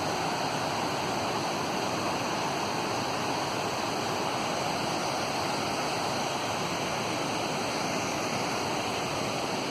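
Fast mountain creek rushing steadily, running high with spring snowmelt.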